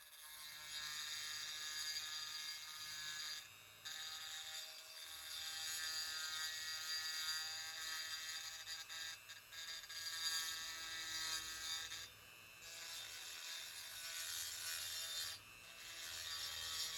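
High-speed rotary tool with a small bit whining as it grinds and deburrs an oil passage in an aluminium engine block casting, easing off briefly three times as the bit is lifted.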